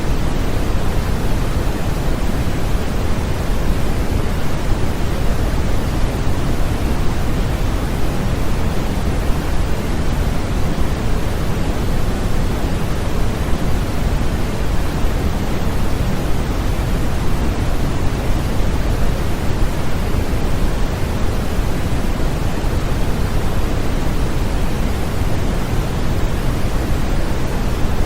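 Continuous steady white noise played as a baby sleep aid, even and unchanging, weighted toward the low end and softer in the highs, like pink noise.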